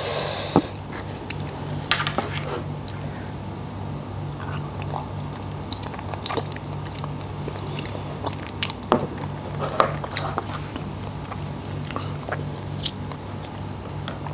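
Close-miked chewing of salmon in a fish-sauce dressing: soft wet smacking and many small sticky mouth clicks scattered throughout, over a steady low hum.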